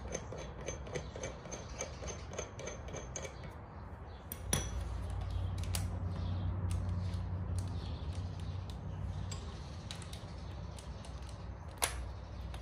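Metal hand tools clinking as a flywheel puller is screwed into a small two-stroke dirt bike engine's flywheel and turned: light scattered ticks and clinks, with a sharper metal knock about four and a half seconds in and another near the end. A low steady hum starts with the first knock and fades out a few seconds before the second.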